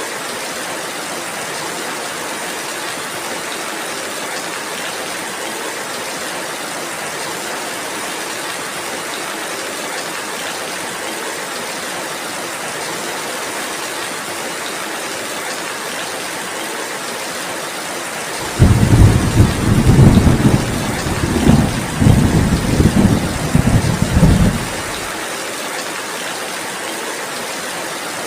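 Steady rainfall, with a loud roll of thunder breaking in suddenly about two-thirds of the way through. The thunder rumbles in several swells for about six seconds, then leaves the rain alone again.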